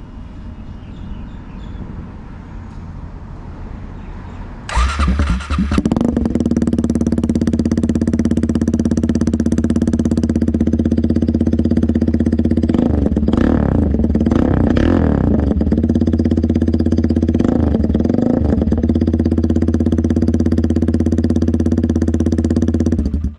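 Suzuki Gixxer 250's single-cylinder engine through an open-pipe full-system exhaust with no catalytic converter: after about five seconds of low noise it starts and runs loud and steady, with a few short blips of the throttle in the middle. The speaker calls the sound too loud.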